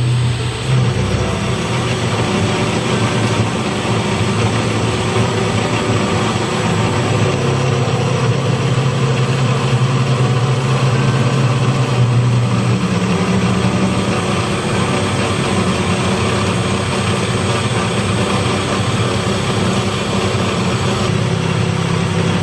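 A large engine or machine running steadily, a low drone with no breaks.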